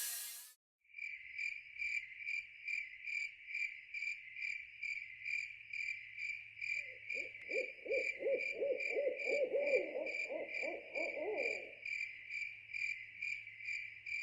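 Cricket-like chirping, even and high-pitched at about two chirps a second, with a lower rapid trilling call joining from about halfway in for some five seconds. A louder noise cuts off just after the start.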